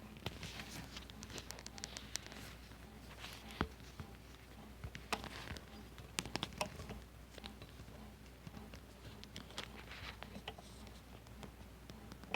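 Wrenches clicking and scraping against a PenpaL pen lathe's collet closer and headstock as they are fitted and worked to tighten the closer: an irregular scatter of small taps and rubs with a few sharper clicks.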